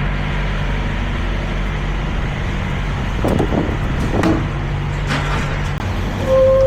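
Diesel engine of a Peterbilt 379 semi truck idling steadily, with a few light clatters midway and a short steady tone near the end.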